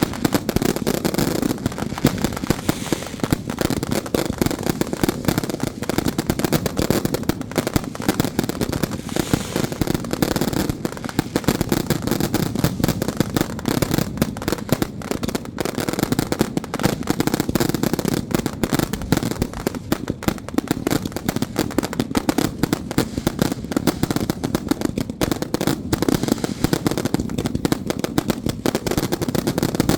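Firecrackers going off in a dense, unbroken crackle of rapid pops, many overlapping at once.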